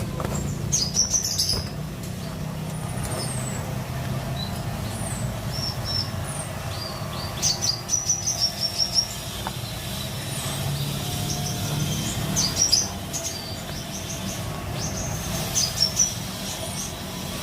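Small songbird chirping in short, high-pitched clusters of calls: about a second in, around the middle, and near the end. A steady low hum runs underneath.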